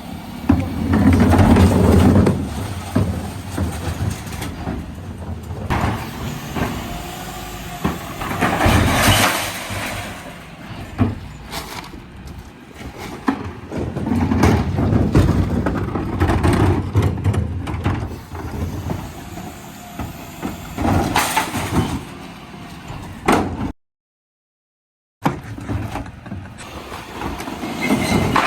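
Dennis Elite 6 refuse truck working its bin lifters: the engine revs up in swells as the lifters raise and tip bins, with crashes and knocks as recycling is tipped into the hopper and the bins come back down. The sound cuts out completely for about a second and a half near the end.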